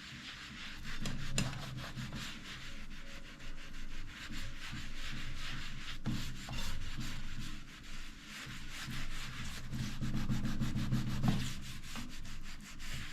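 Sponge scrubbing baking-soda paste over the greasy inside of a toaster oven: continuous gritty rubbing that swells and dips with the back-and-forth strokes.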